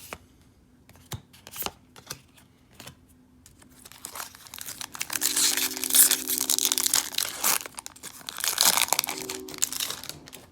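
Foil wrapper of a Magic: The Gathering Core Set 2020 booster pack being torn open and crinkled. A few light clicks come first, then from about four seconds in a long stretch of loud crackling and crinkling.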